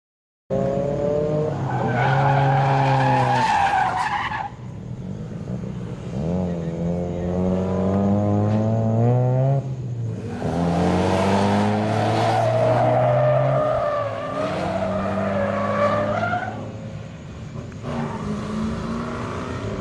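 Car engine revving hard and dropping off in four surges as the car is driven sideways through corners, with tyre squeal during the louder runs.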